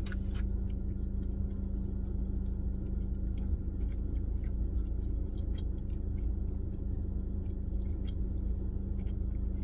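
A person chewing a mouthful of food, with faint scattered mouth clicks, over a steady low rumble and hum inside a car's cabin.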